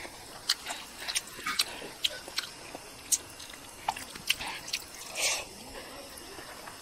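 Close-up mukbang eating sounds: scattered wet lip smacks and mouth clicks as a mouthful of chicken head and rice is chewed, with one short, louder breathy sound about five seconds in.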